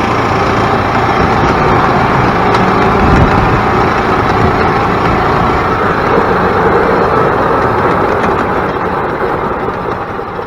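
Freshly rebuilt Yamaha G16 golf cart's single-cylinder four-stroke engine running smoothly while the cart is driven, easing off near the end.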